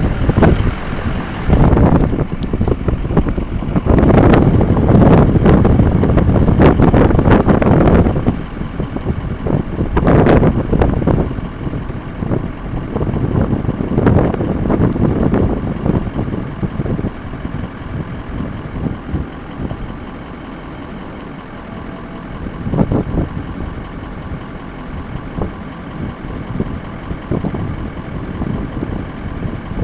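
Wind buffeting the microphone in heavy gusts for about the first eight seconds, then easing to a steadier, quieter rumble of wind over a vehicle's running engine.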